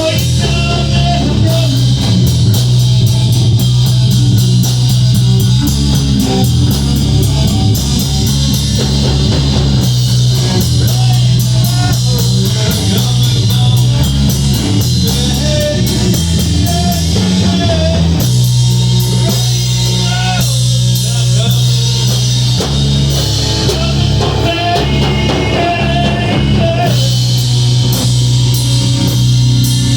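Rock band playing a passage without sung words: guitar, bass and drum kit.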